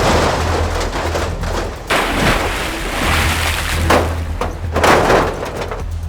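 Cartoon sound effects: a run of heavy thuds and booms, four or so a second or more apart, over a steady low hum.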